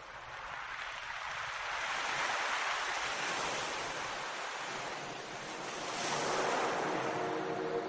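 Sea waves washing in, the surf swelling twice and easing back between.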